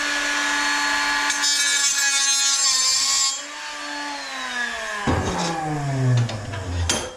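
Handheld electric power tool running at full speed with a steady whine, a harsh cutting hiss for about two seconds as it bites into metal, then the motor winding down with a falling pitch and a few knocks near the end.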